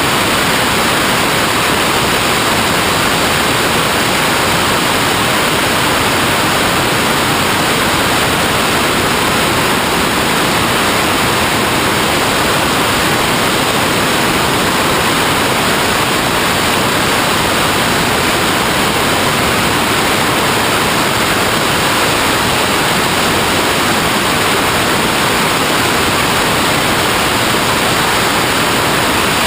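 A steady, unchanging hiss of noise at a constant level, with no tones, knocks or changes.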